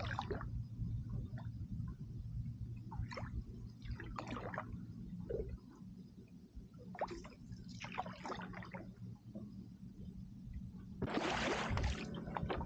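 Canoe paddle dipping and pulling through river water, a splashy gurgling stroke every second or two, with a louder splash near the end, over a steady low rumble.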